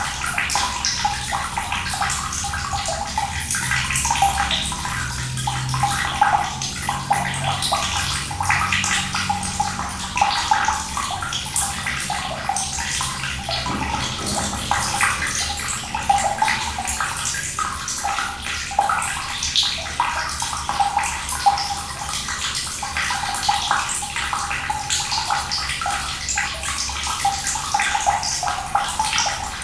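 Cold water running and splashing steadily, a continuous spatter with many small crackles.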